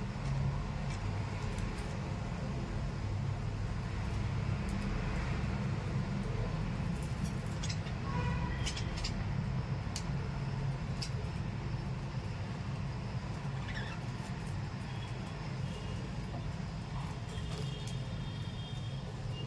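A steady low rumble, like passing traffic or machinery, with a few short, high chirps and clicks from small pet parrots (lovebirds and budgies) scattered through it, more of them near the end.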